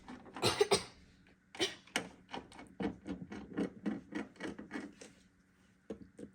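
Small computer-case screws and parts handled and rattled together: a burst of rustling near the start, then a run of short light clicks, a few a second.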